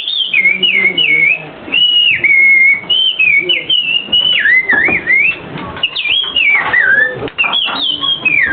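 A person whistling an imitation of an American robin's song: a string of short, clear phrases that slide up and down in pitch, with brief gaps between them.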